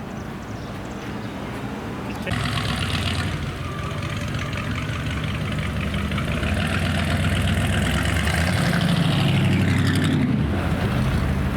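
A car engine starts up about two seconds in and runs, growing louder over the following seconds and easing off near the end.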